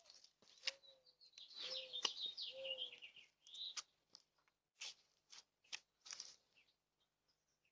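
Faint chirping of small birds, the busiest stretch between about one and a half and three and a half seconds in, with scattered sharp clicks throughout.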